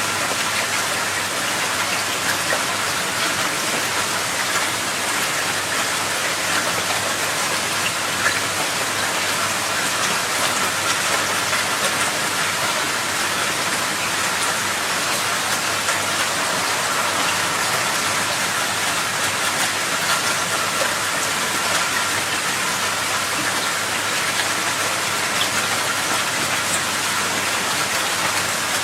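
Steady rushing water: a loud, even hiss that never lets up, with no separate splashes or pauses.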